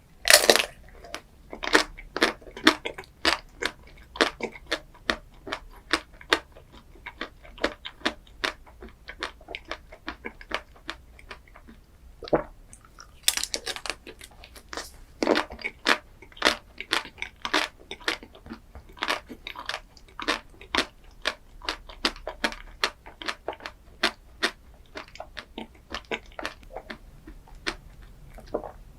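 Close-miked eating of a crunchy chocolate dessert: a loud bite at the start and another about halfway through, with rapid crunchy chewing in between and after.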